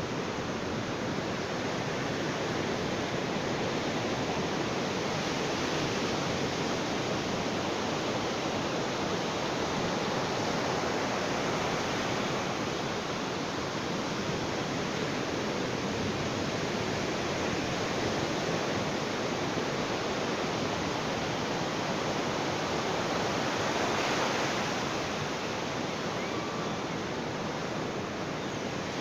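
Ocean surf: waves washing onto a beach as a continuous rush that swells and eases slowly, a little stronger about three-quarters of the way through.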